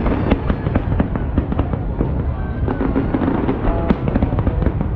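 Large aerial fireworks display: a dense, continuous barrage of bangs and crackling shell bursts over a low rumble.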